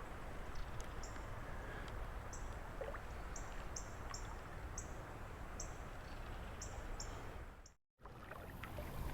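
Creek-side ambience: a steady hiss of flowing water with a bird's short high chirps repeating irregularly. The sound cuts out completely for a moment near the end.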